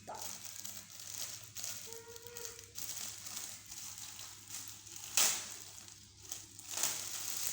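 Packaging being crinkled and rustled by hand, in irregular bursts, the loudest about five seconds in.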